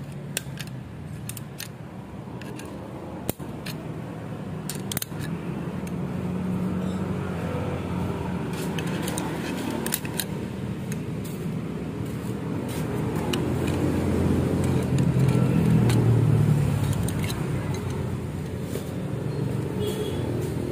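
Small metal clicks and clinks as Vespa clutch springs and clutch parts are handled and pressed into place, over a steady engine hum that swells to its loudest about 16 seconds in and then eases.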